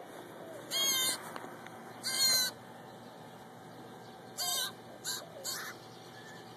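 A bird calling: two loud calls in the first two and a half seconds, a third a couple of seconds later, then two short ones in quick succession.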